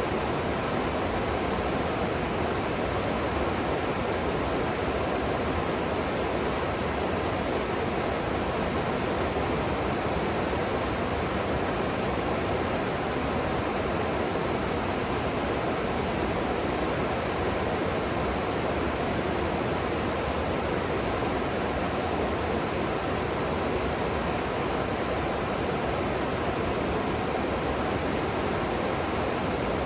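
River water rushing below, a steady, unchanging hiss of flowing water with no separate events.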